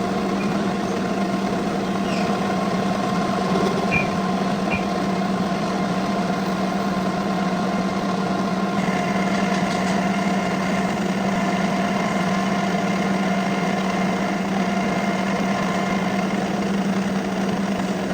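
Metal lathe running steadily with a constant machine hum. About halfway through, a higher steady whine joins in.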